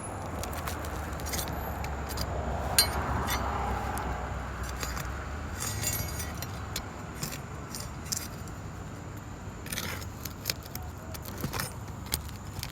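Steel roof snake scraping and clinking under asphalt shingles as it works roofing nails loose, with many scattered sharp metallic clicks. A low steady rumble runs underneath.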